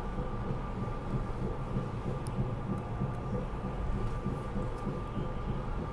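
SEPTA Regional Rail electric commuter train running, heard from inside the passenger car: a steady low rumble with a faint, even whine above it.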